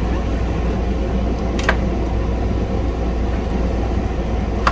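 A steady low background rumble, with a single sharp click about one and a half seconds in from the plastic case of a floppy disk drive being handled and pried apart.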